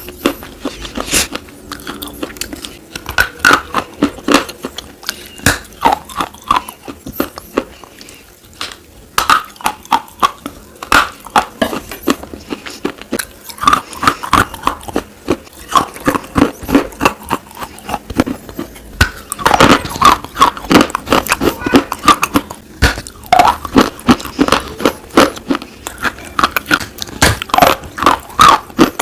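Slate pieces being bitten and chewed close to the microphone: dense runs of sharp, brittle crunches and crackles, with a couple of short pauses.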